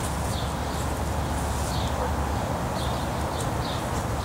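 Small birds chirping, short high calls about once or twice a second, over a steady low rumble.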